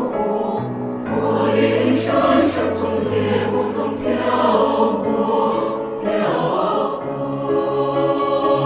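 Mixed choir singing sustained chords, with low bass notes entering about a second in beneath the upper voices.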